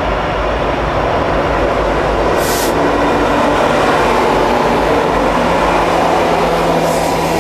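Freight train's diesel-electric locomotives passing close by: a loud, steady engine drone mixed with rolling rail noise, with a short hiss about two and a half seconds in.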